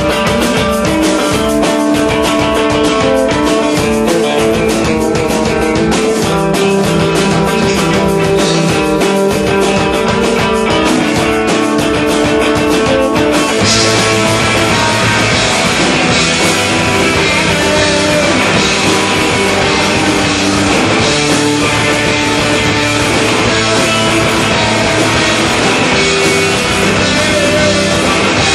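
Live rock band playing an instrumental passage with electric guitars and drums. About halfway through the music shifts into a fuller, brighter section.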